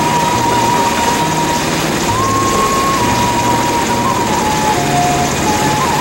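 Helicopter running steadily with a dense, loud noise. A simple melody of held notes steps up and down over it.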